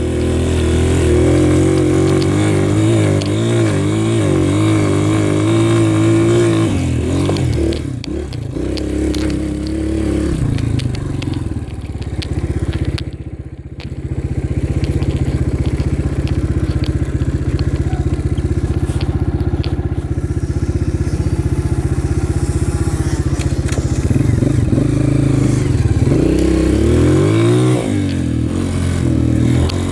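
Dirt bike engine running under way, its pitch rising and falling as the throttle is worked and gears change. It eases off briefly about halfway through, then holds steadier before revving up and down again near the end.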